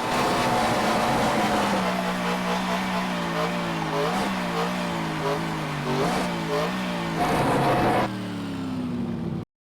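A car's engine running at fairly steady revs, its hum dipping slightly in pitch about two seconds in, with a few brief rises in revs. It cuts off suddenly near the end.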